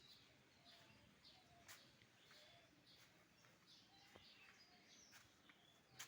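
Faint birds chirping in short scattered calls, with a few soft clicks, the sharpest near the end.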